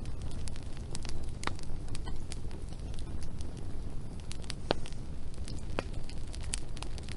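Wood fire crackling, with frequent sharp pops and snaps over a steady low rumble. The loudest pops come about one and a half, four and three quarter and six seconds in.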